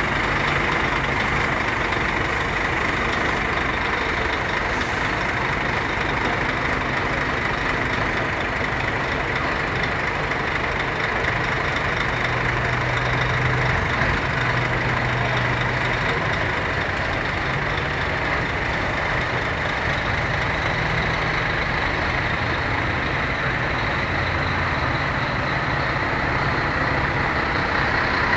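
Diesel engines of Scania trucks running steadily as the trucks drive out, the engine notes shifting now and then.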